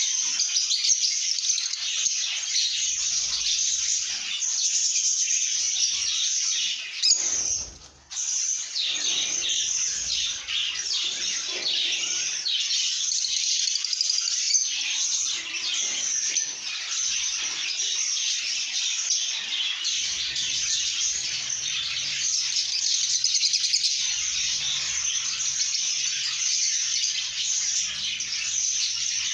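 A group of lovebirds chirping and chattering non-stop in high, overlapping calls, which the keeper takes as the happy sounds of content birds. The sound drops out briefly about eight seconds in, then the chatter resumes.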